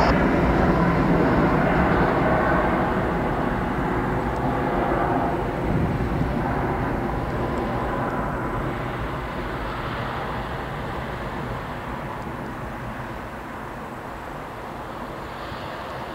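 Airliner engine noise: a steady roar, loud at first and fading slowly away as the aircraft passes and moves off.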